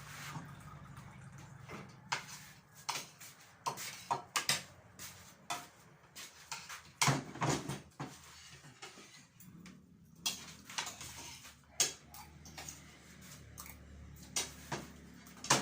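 Spoons and forks clinking and scraping against plates in irregular, sharp taps while people eat.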